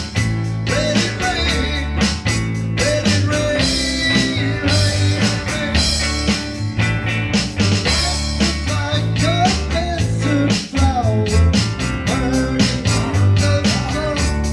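Rock song played by a band: a steady drum beat with bass and guitar, and a sliding melody line over them.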